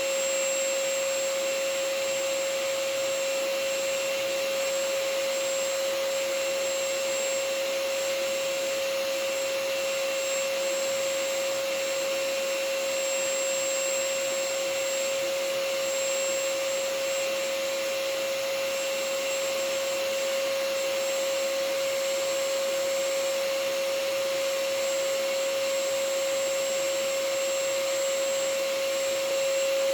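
Vacuum cleaner running steadily, used as white noise: an even rushing hiss with a constant whine.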